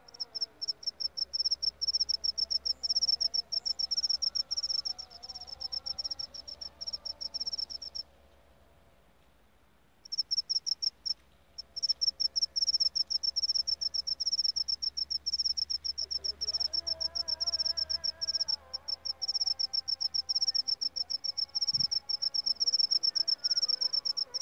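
A jangkrik seliring cricket chirping: a loud, high-pitched, rapidly pulsed trill that breaks off for about two seconds roughly a third of the way in and then starts up again.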